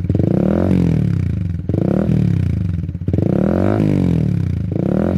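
Honda Winner X single-cylinder motorcycle engine with an aftermarket exhaust, revved in repeated throttle blips: the pitch climbs quickly, then falls back toward idle, about once every second and a half.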